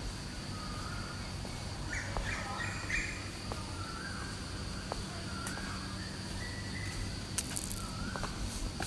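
Birds chirping outdoors, short calls every second or so, over a steady high-pitched drone and a low hum.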